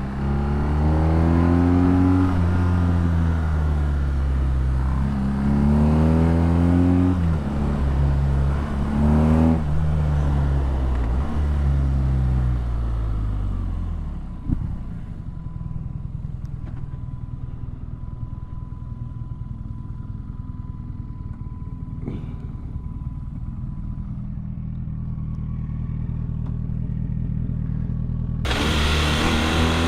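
BMW R nineT's boxer twin through an Akrapovič exhaust, accelerating and shifting repeatedly with the pitch climbing and dropping. About halfway a sharp knock is heard, and the engine drops to a low, even run. Near the end it revs up hard again.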